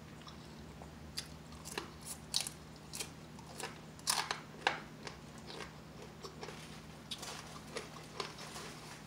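Close-up crunching of crisp bacon being bitten and chewed: irregular crackly snaps, thickest a second or two in and thinning out toward the end.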